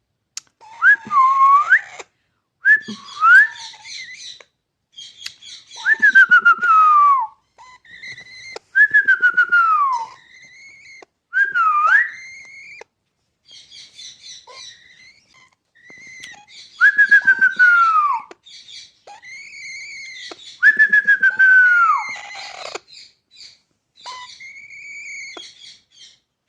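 Alexandrine parakeet calling: a string of loud whistled notes, several sliding down in pitch over about a second each, with a few quick upward whistles and softer chattering notes between them.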